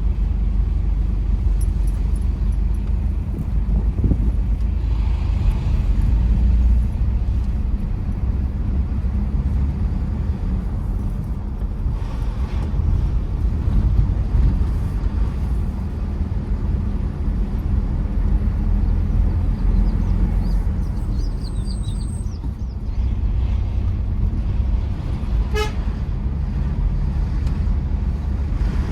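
Steady low rumble of a Tata Safari Storme SUV's engine and tyres on the road while driving, with a brief horn toot near the end.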